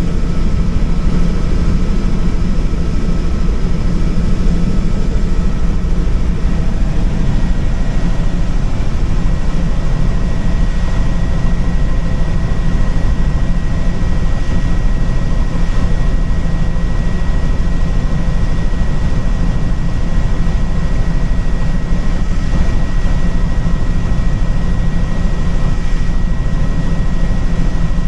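Helicopter in flight: engine and rotor running at a steady, loud drone with a thin steady whine above it.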